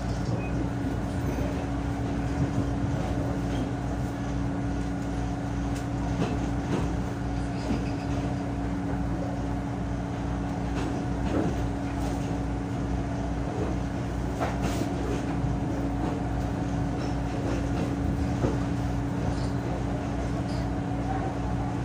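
PNR diesel train running, heard from on board: a steady engine drone with a constant hum and a low, even throb. Occasional sharp clicks come from the wheels over the track.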